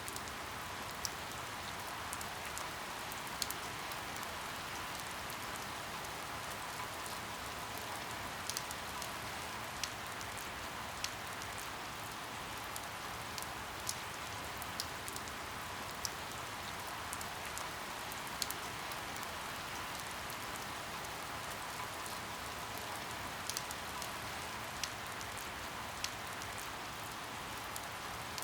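Steady rain falling, with single sharp drops or drips striking a surface every second or two.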